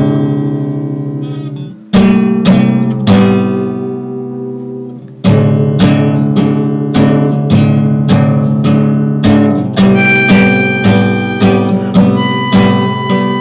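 Instrumental song intro: strummed acoustic guitar chords, a few single chords left to ring and then steady strumming, joined about ten seconds in by a high, held melody line.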